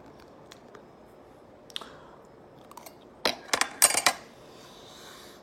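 Biting into and chewing a slice of soft cheese and spinach quiche close to the microphone, with a few faint mouth clicks and then a cluster of loud wet mouth clicks about three to four seconds in.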